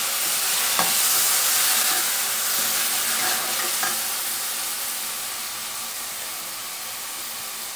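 Chopped tomato sizzling in hot oil with sautéed onions in a wide kadai while a spatula stirs it, with a couple of light spatula scrapes against the pan. The sizzle slowly dies down.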